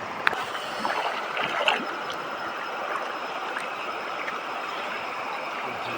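Steady rush of river water, with a couple of small knocks in the first two seconds.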